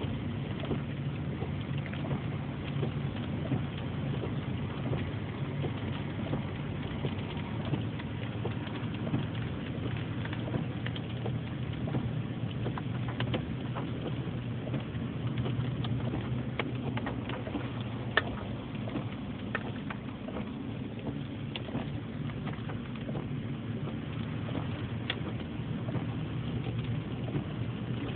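Hail storm: a steady rush of falling hail and rain, with many sharp ticks of hailstones striking, one louder crack about eighteen seconds in.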